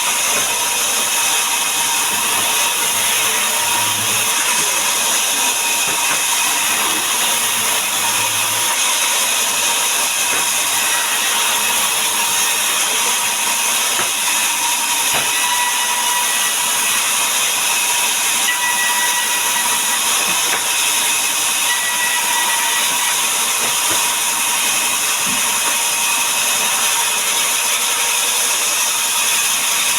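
Powered wood saw running steadily as it cuts timber into boards, an even, continuous machine noise with no breaks.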